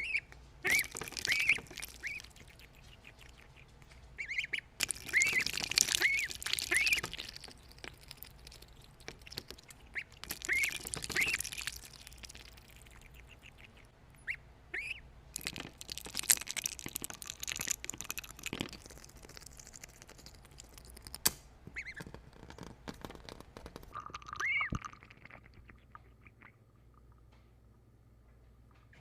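A bird calling in several bouts of short, repeated calls, with pauses between the bouts.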